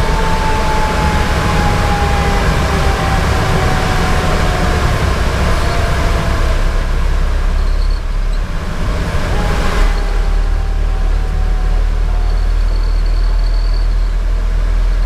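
Fire engine's Detroit Series 60 diesel and road noise, a steady low rumble inside the cab of a moving 2010 Pierce Velocity pumper. A faint tone slides slowly down in pitch twice.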